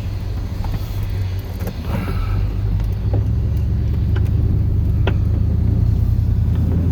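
Chevrolet plow truck's 8.1-litre Vortec big-block V8 running under way, a steady low hum that grows louder about three seconds in. A few faint clicks sound over it.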